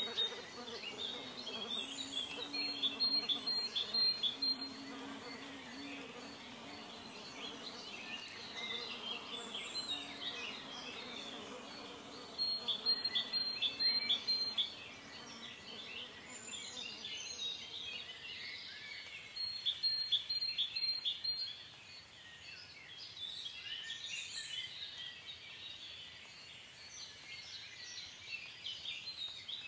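Songbirds chirping and singing in a nature ambience. A rapid run of repeated high notes stands out three times over a background of many overlapping chirps, with a low hum in the first few seconds.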